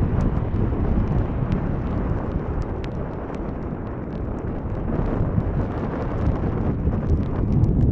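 Low, steady rumble of a Boeing 737-8 jet airliner's engines as it lands, mixed with heavy wind buffeting the microphone.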